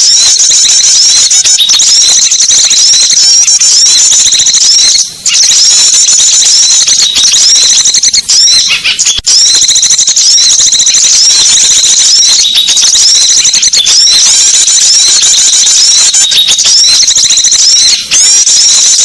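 Dense, continuous high-pitched twittering and chirping of many small songbirds, a lure recording played to draw small birds in. The chatter breaks off briefly about five seconds in and again about nine seconds in.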